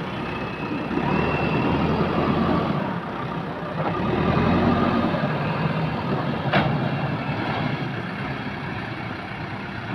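JCB backhoe loader's diesel engine running under varying load, rising and falling in loudness, with one sharp clank a little past halfway.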